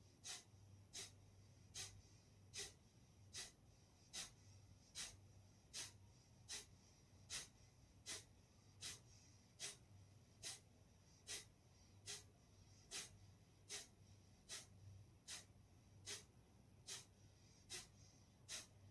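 Kapalbhati breathing: short, forceful exhalations through the nose, each pushed out by a snap of the abdominal muscles. The puffs are faint and evenly paced, a little over one a second.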